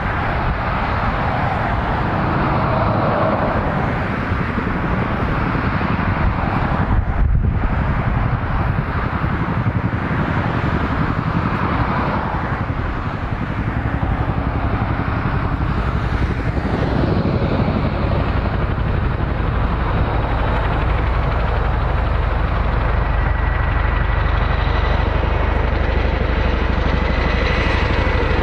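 Boeing CH-47 Chinook tandem-rotor helicopter running, its two rotors and twin turboshaft engines making a loud, steady noise. A faint steady whine comes in near the end.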